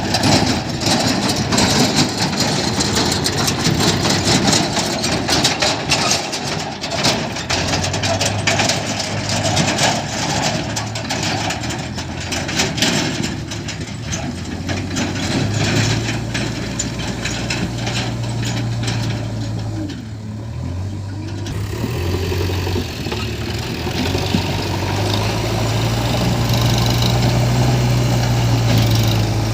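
Diesel engines of a JCB 3DX backhoe loader and a Mahindra 475 DI tractor running, the engine note stepping up and down several times as the loader works, with much clattering and knocking through the first half.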